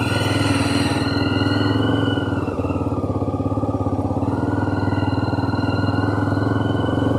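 Honda CB 300R's single-cylinder engine running steadily as the motorcycle is ridden, with a slight dip and recovery in engine pitch midway.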